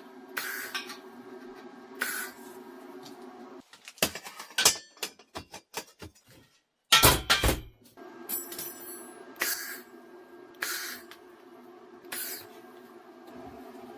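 Steel frame fabrication: a steady machine hum with short hissing bursts every second or two. In the middle the hum drops out for a run of metal clicks and knocks, ending in a loud clank about seven seconds in.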